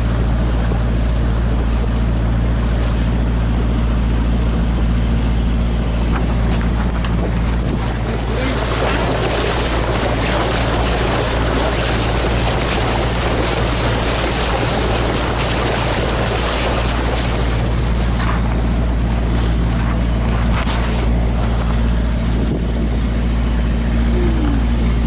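Motor launch's engine running steadily, with water rushing past the hull, louder for several seconds through the middle.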